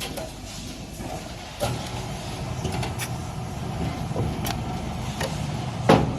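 Automatic wood sanding machine running with a steady low hum that gets louder about one and a half seconds in. A few sharp knocks and clicks come through it, the loudest just before the end.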